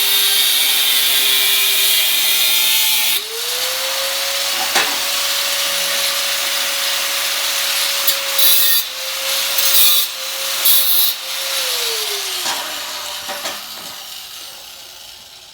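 Angle grinder with a cut-off wheel cutting a steel patch plate for a frame repair. The motor whine sags in pitch while the wheel bites and rises when it lifts off, with harsh bursts of cutting noise. Near the end it is switched off and winds down.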